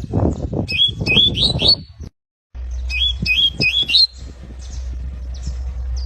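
Canary chirping: two short phrases of about four quick, rising chirps each, with a brief break between them, over a low rumble.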